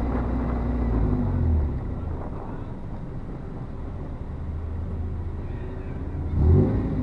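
Car engine running steadily, louder for the first second and a half and then quieter, with a brief rise in pitch about six and a half seconds in.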